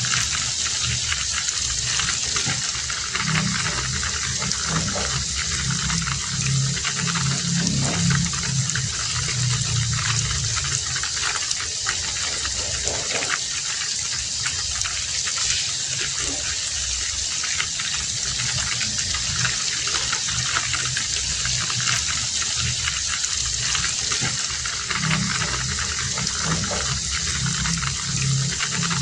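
Heavy rain falling steadily, a dense even hiss with many separate drop hits through it.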